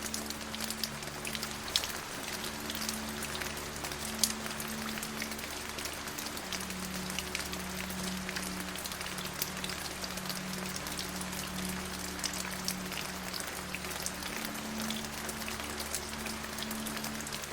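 Steady rain falling, with individual drops tapping sharply throughout. Under it runs a low sustained drone that shifts pitch every few seconds.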